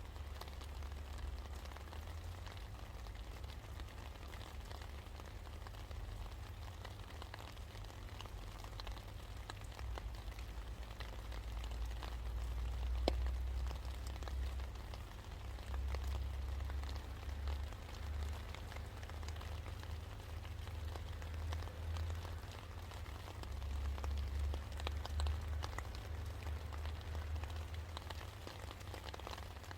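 Steady rain falling, many small drop ticks over an even hiss with a low rumble underneath. One sharper drop tick stands out about halfway through.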